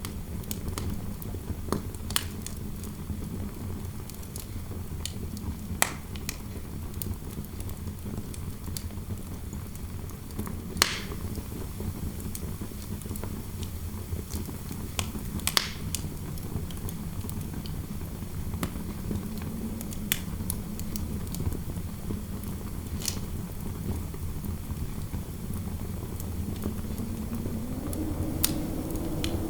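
Fireplace fire crackling, with scattered sharp pops over a steady low rumble, and interior wind howling. A howl rises in pitch near the end.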